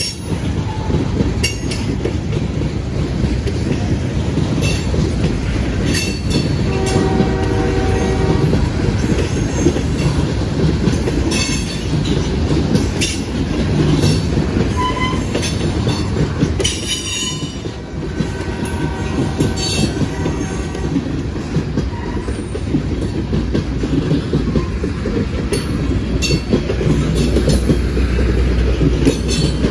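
A Norfolk Southern freight train's cars rolling past in a steady rumble, wheels clacking over the rail joints. A pitched squeal rises over the rumble for a couple of seconds about seven seconds in, and again near twenty seconds.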